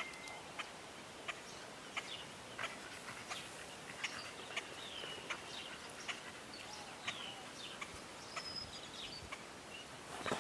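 Birds chirping and calling: short high chirps and brief whistled notes that rise and fall, scattered every second or so over a faint steady background hiss.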